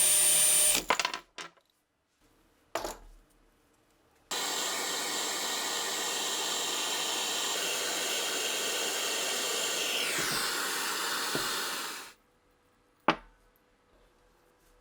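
A power tool running steadily stops just under a second in, followed by a few clicks and a knock of handling. It then runs again for about eight seconds and cuts off, and a single click follows near the end.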